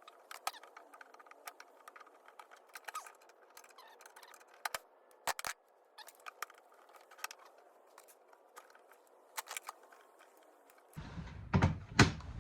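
Scattered small clicks, taps and scrapes of hands working a latch piece in and out of a plastic center console. Near the end come a few louder knocks.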